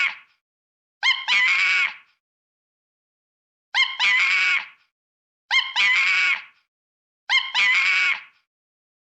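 Monkey screaming calls: a short yelp run into a longer shrill scream, the same call repeated four times with dead silence between.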